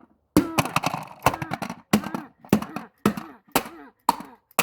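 Hammer striking a plastic toy truck again and again, about eight sharp blows a little over half a second apart, each followed by a short vocal cry.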